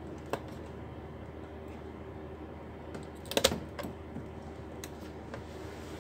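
Small hard clicks from laptop parts being handled and fitted during reassembly: one click near the start, then a short clatter of clicks about three and a half seconds in, and a few lighter ones after. A steady low hum runs underneath.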